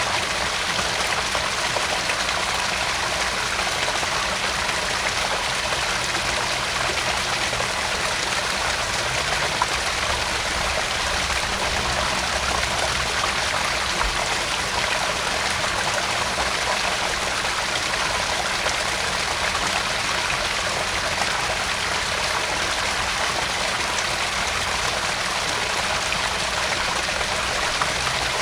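Garden pond waterfall: water splashing and trickling steadily into the pond.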